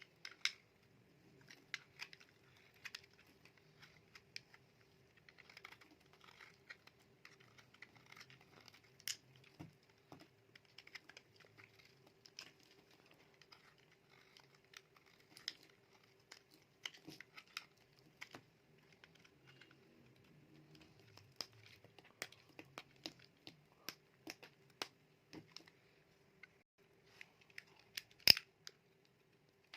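Knife cutting through bars of dry, brittle soap: irregular crisp crackles and clicks as the blade breaks through, with one sharp snap near the end.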